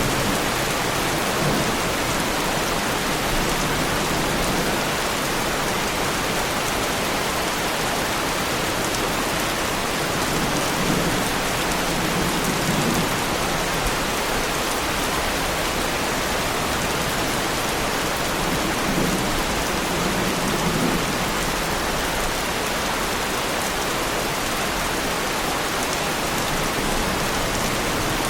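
Heavy rain pouring steadily onto a car's bodywork.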